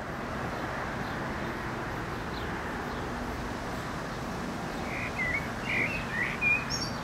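A bird gives several short chirps about five seconds in, over steady outdoor background noise with a faint low hum.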